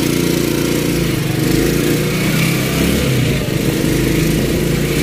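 Tricycle's motorcycle engine running steadily under way, heard from the open back seat behind the rider, with wind noise on the microphone.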